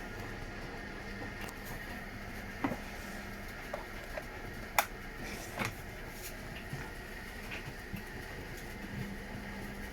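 Washing machine running through a wash, with a steady hum and a few sharp clicks and knocks, the loudest about halfway through.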